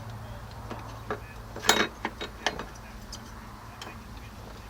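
Irregular metallic clicks and clinks of hand tools and engine parts being handled, with the loudest clank a little over a second and a half in.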